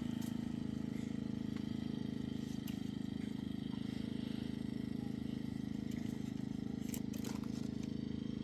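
Steady low hum of a running motor, with a few light clicks about seven seconds in.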